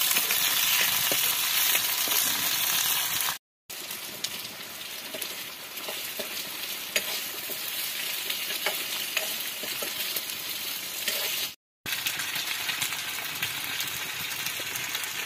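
Greens and vegetables sizzling in hot oil in a small metal wok over a wood fire, loudest in the first few seconds, then quieter frying with scattered clicks as they are stirred. The sound cuts out briefly twice.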